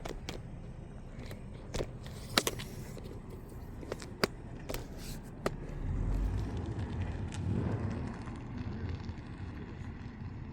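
A road vehicle going by, its low rumble swelling about six seconds in and fading again about two seconds later, after several sharp clicks and knocks.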